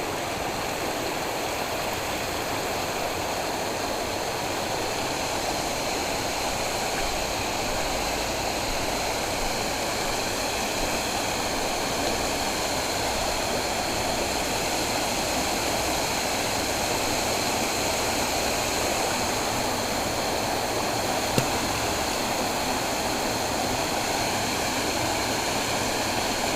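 Water flowing steadily in a canal: a continuous, even rushing.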